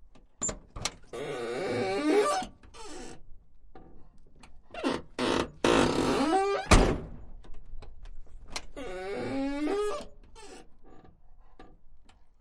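A car door being worked open and shut several times: latch clicks, creaking hinge stretches that bend in pitch, and one sharp, loud thunk of the door shutting about seven seconds in.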